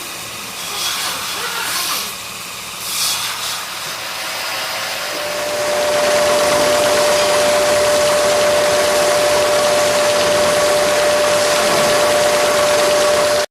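Kansai Special industrial stitching machine: short air hisses, then the machine runs steadily at speed with a constant whine over a mechanical hiss, cutting off abruptly.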